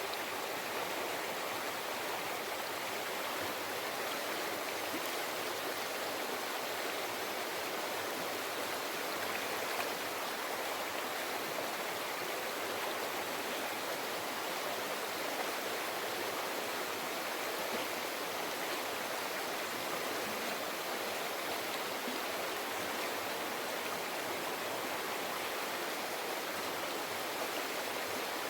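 Mountain river flowing over rocks: a steady, even babbling rush of water.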